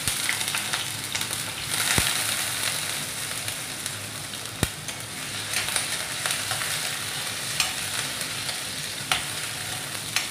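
Freshly added potato pieces sizzling in hot oil in a steel kadhai, with a metal ladle stirring them and clicking against the pan a few times.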